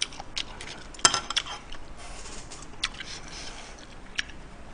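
Close-miked chewing, with a few short, sharp wet mouth clicks scattered through it and a small cluster of them about a second in.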